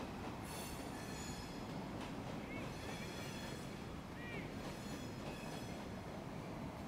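Freight train of tank cars rolling past with a steady rumble. Its wheels squeal in high ringing whines that come and go every second or two.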